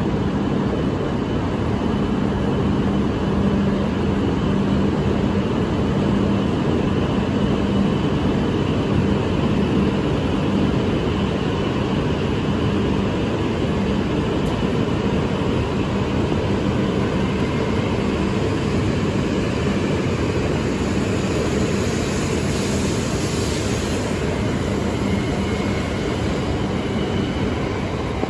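Shinkansen train at a station platform: a steady rumble and low hum of the train, with a higher whine rising over it about three quarters of the way through.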